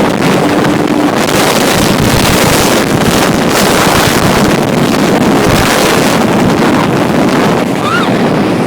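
Jet ski running at full speed over the water, with heavy wind buffeting the microphone.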